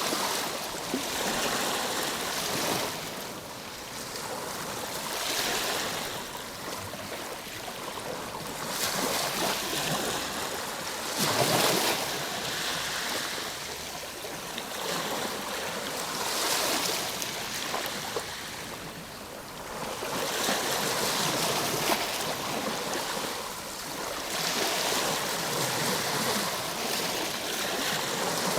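Ocean waves breaking and washing on a shore, the surf swelling and falling back every few seconds in a continuous hiss.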